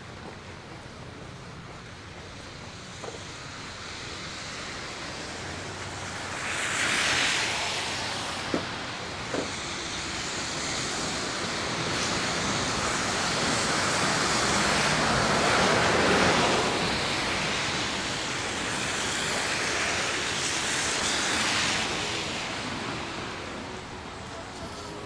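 City traffic passing on a slushy, wet street: tyre hiss swells and fades as cars go by, three passes in all, with two sharp clicks about a third of the way in.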